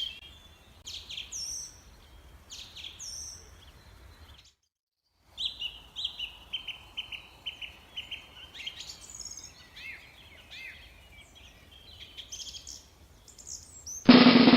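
Small birds calling: scattered high chirps and whistles, a moment of dead silence, then a quick run of repeated chirps followed by more scattered calls. Near the end a loud buzzing tone starts.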